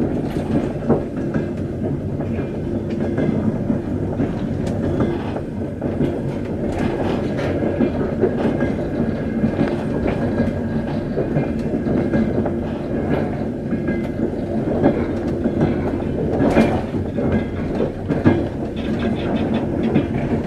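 A train running along the track: a steady rumble of wheels on rail, with scattered sharp clicks.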